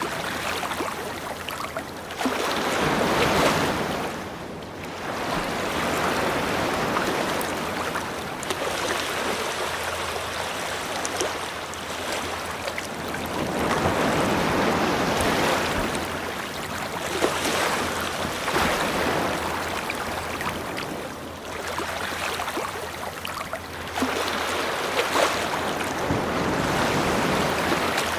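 Ocean surf washing up on a beach: waves swelling and falling away, a new one every four to six seconds.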